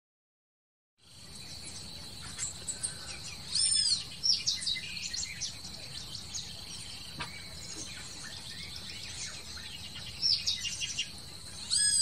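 Birds chirping and calling over a steady high-pitched insect drone, starting about a second in; the loudest are short arching calls about four seconds in and again near the end.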